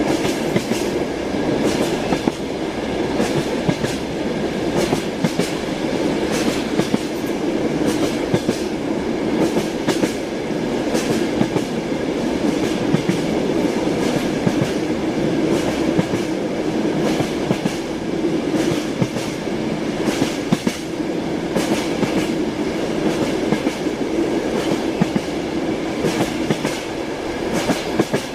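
Train running along the line, its wheels clattering steadily over the rails with frequent sharp clicks over a continuous rumble.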